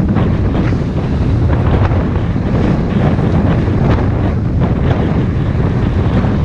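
Wind buffeting the microphone on a motorboat under way, over the rumble of the boat running across the lake, with irregular splashes of water against the hull.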